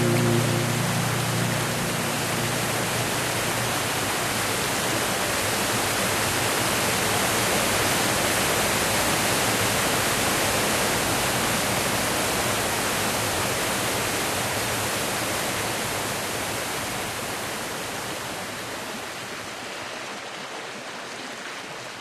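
Steady rush of water, like a waterfall or fast stream, fading out over the last several seconds. A low musical note dies away at the start.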